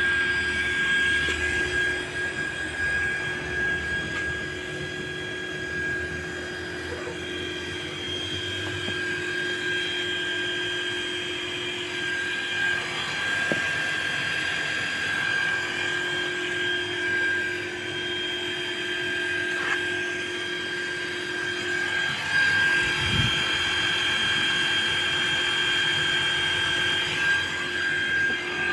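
Compressor pump's motor running with a steady high whine over a lower hum.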